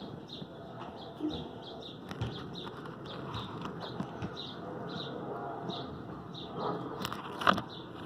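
A small bird chirping over and over, short high notes about two a second, with a brief loud rustle and knock near the end.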